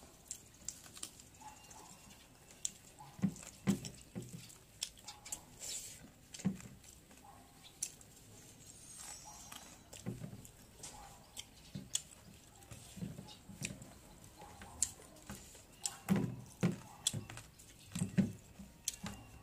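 Close-up eating sounds of a person eating rice and fried chicken by hand: irregular wet clicks and smacks of chewing, with soft low thumps, in bunches every few seconds.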